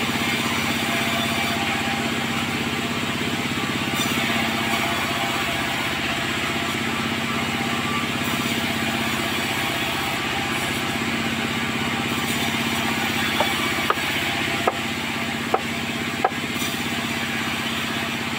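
Sawmill machinery running steadily, with the even hum of a motor driving it. Five short, sharp knocks come about three-quarters of the way through.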